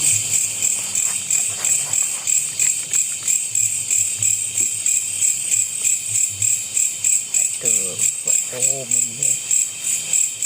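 Chorus of night insects, crickets or cicadas, giving a high, shrill trill that pulses evenly about three times a second. A short wavering pitched sound comes in about eight seconds in.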